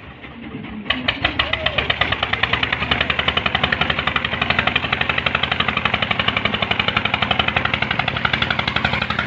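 A machine starts up abruptly about a second in and runs with a rapid, even knocking of several beats a second.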